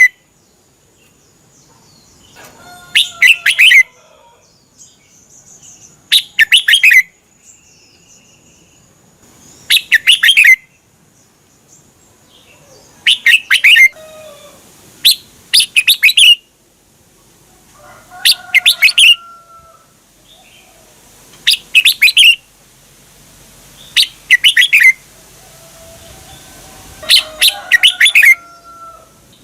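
A red-whiskered bulbul sings short, bright song phrases, about one every three seconds.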